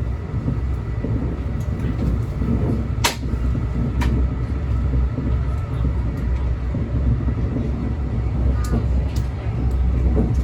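Cabin noise of a moving Brightline passenger train: a steady low rumble, with two sharp clicks about three and four seconds in.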